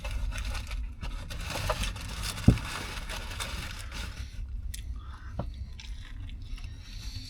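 Close-up chewing and crunching of a turkey, ranch and bacon sub, busiest in the first four seconds and quieter after, with one sharp click about two and a half seconds in.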